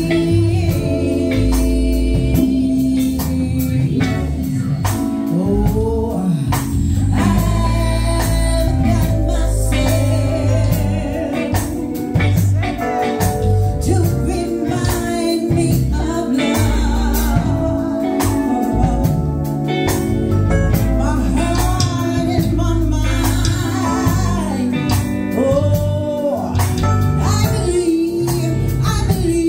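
Live music: a singer over a band, with heavy bass and a steady drum beat.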